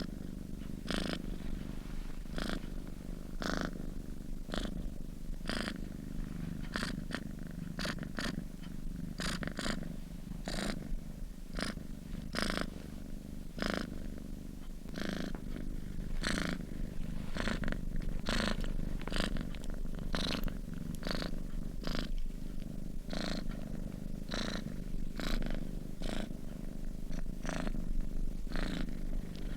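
Domestic cat purring steadily while asleep: a continuous low rumble with a short airy streak on each breath, about one or two a second.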